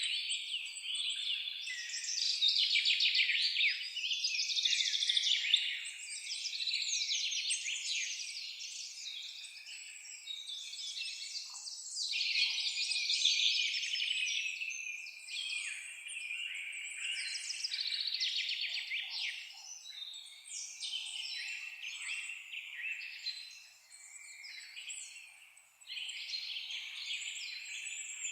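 Dense chorus of small songbirds, many overlapping rapid chirps and trills that swell and fade, with a short lull near the end.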